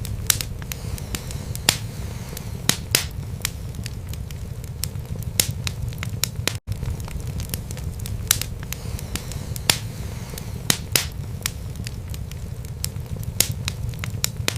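Wood fire burning in a fireplace: irregular sharp crackles and pops over a steady low rumble of the flames. The sound drops out for an instant about halfway through.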